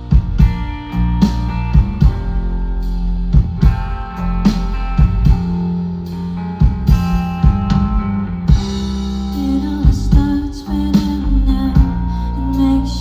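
Live rock band playing: electric guitar, bass and drum kit, with sharp drum hits over sustained guitar chords.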